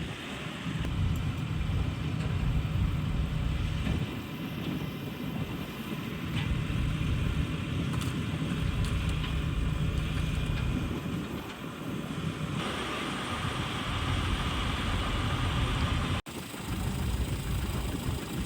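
Mitsubishi Fuso truck's diesel engine idling steadily, with a higher hiss joining about two-thirds of the way in and a brief break near the end.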